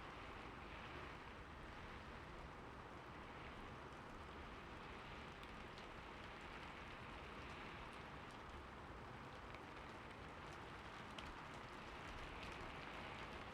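Slow, light rain falling steadily: an even hiss with scattered faint drop ticks.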